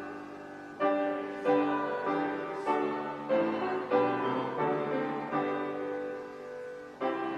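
Slow, gentle piano music: chords struck one after another, each left to ring and fade before the next.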